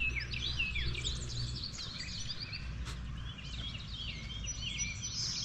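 Several songbirds chirping and singing at once, many short falling notes overlapping, with a low rumble underneath for the first second and a half.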